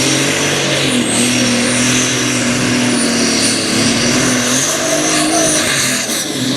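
Turbocharged pulling tractor 'Brothers Toy' running hard at full throttle during its pull: a steady, loud engine note with a high turbo whine above it.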